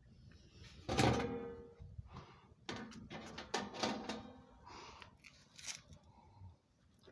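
A series of knocks and scrapes of hard objects being handled. The loudest comes about a second in and has a short ring, with more clatter a couple of seconds later.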